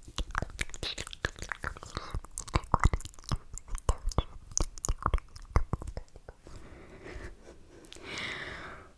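Close-miked ASMR mouth sounds: rapid wet clicks and smacks for about six seconds, then softer sounds and one longer slurp near the end.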